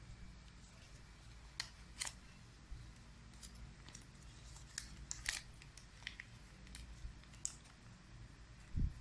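Origami paper being folded and creased by hand: scattered crisp rustles and clicks of paper, with a soft low thump near the end.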